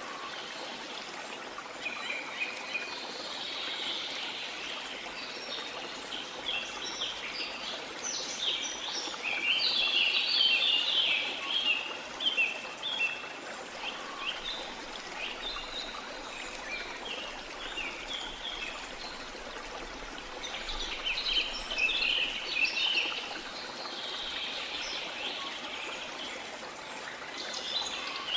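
Steady rush of running water from a waterfall or stream, with birds chirping and calling over it in bursts, busiest in the middle and again toward the end.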